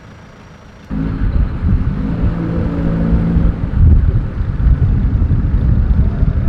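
A car engine running close by: a loud, low rumble that starts suddenly about a second in, with a steady engine note for a couple of seconds before it turns rougher.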